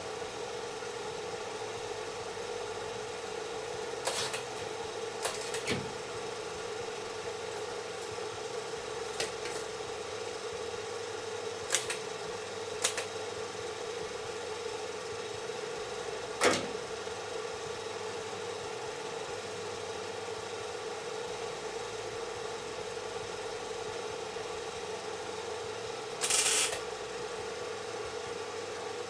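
A steady machine hum with a few scattered clicks and knocks. There is one short noisy burst near the end.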